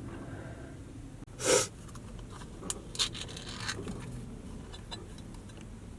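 One short, loud burst of breath from a person, like a cough, about a second and a half in, over a low steady background hum, with a few faint clicks after it.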